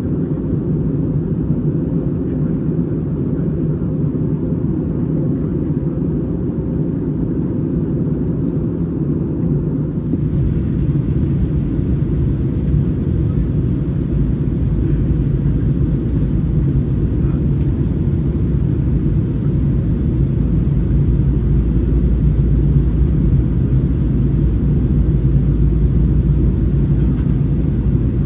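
Steady roar of engines and rushing air inside an Airbus A321's cabin during descent. About ten seconds in, a brighter hiss joins it, and the deep rumble grows louder toward the end.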